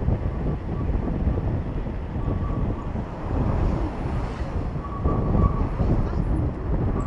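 Wind buffeting a bicycle POV camera's microphone while riding through city traffic, with the rumble of traffic around the rider.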